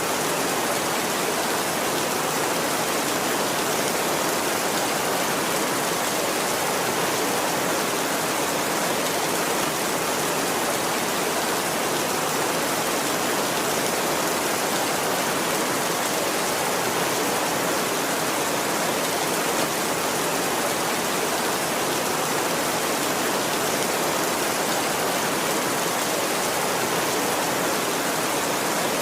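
Steady heavy rain: a dense, even hiss of falling water with no thunder and no change in level.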